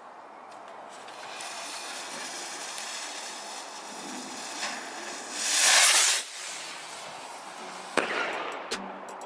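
Firework going off: a fizzing hiss that builds, a loud rushing whoosh about halfway through, then a sharp bang about eight seconds in.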